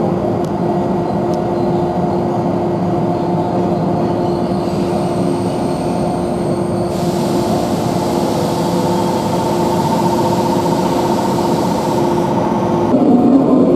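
Train running with a steady mechanical hum and a constant tone, a hiss growing brighter from about seven seconds in until near the end.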